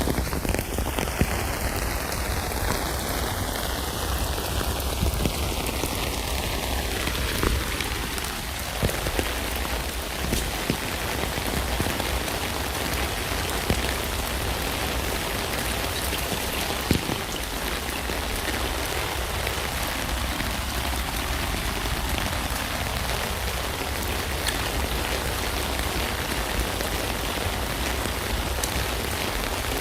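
Steady rain falling on a tent, a dense even patter with individual drops ticking sharply on the fabric now and then.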